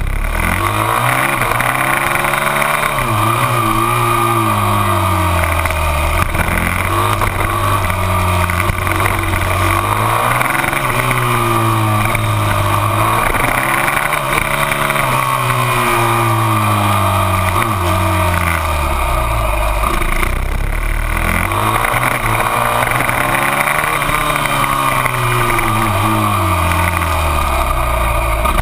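Onboard sound of a TM 450 SMX supermoto's single-cylinder four-stroke engine at racing pace, revving up through the gears and dropping back into each corner, several times over.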